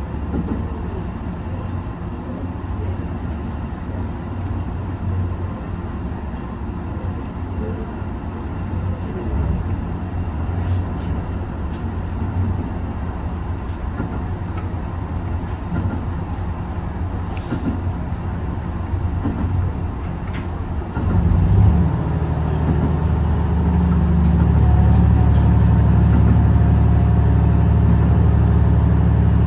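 Running noise of a JR East HB-E210 series hybrid diesel train, heard from on board. About 21 seconds in, a steady low hum grows louder and holds.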